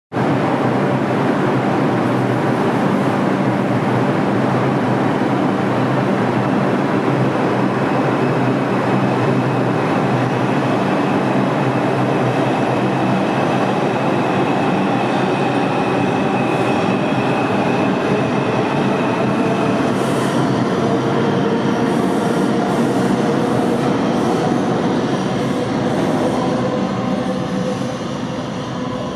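New York City IRT subway train running: a loud, steady rumble of wheels on rail with a low motor hum. A thin high wheel squeal comes in for several seconds in the middle.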